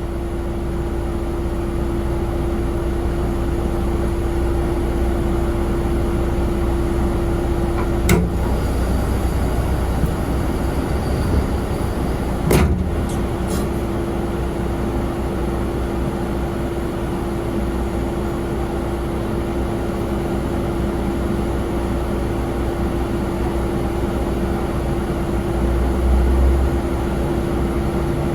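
Steady machinery drone with a constant hum running through it, broken by two sharp clicks, one about eight seconds in and one about twelve and a half seconds in.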